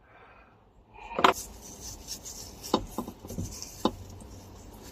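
Handling noise: scraping and rustling with several sharp knocks, the loudest about a second in.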